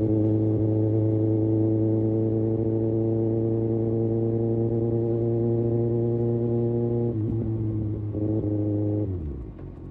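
Kawasaki Ninja ZX-6R inline-four engine and exhaust running at a steady, held engine speed; about seven seconds in the note breaks off, comes back briefly, then falls away to a lower, quieter sound near the end.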